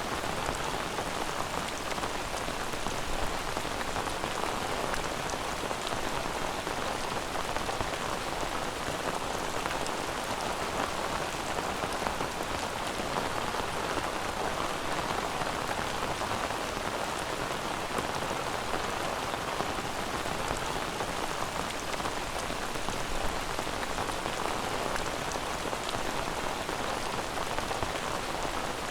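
Steady rain falling on a surface, an even hiss with scattered drop ticks and no change in strength.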